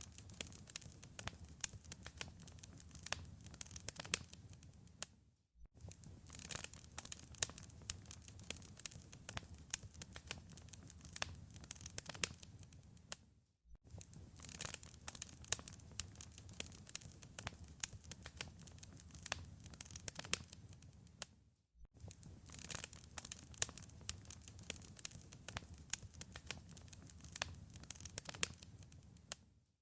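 Wood fire crackling and popping over a low, steady rumble of flames. The sound cuts out for a moment three times, about eight seconds apart, as a short recording loops.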